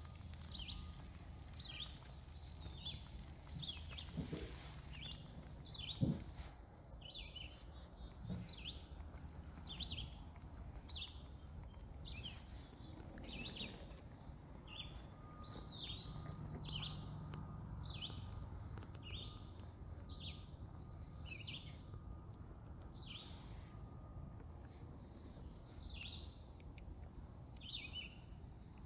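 A bird calling over and over, short high chirps about one or two a second, over faint outdoor background noise. Two soft thumps come about four and six seconds in, the second the loudest sound.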